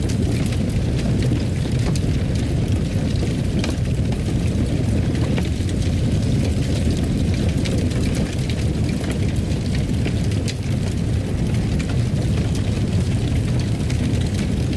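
Fireplace fire burning: a steady low rumble with scattered small crackles and pops.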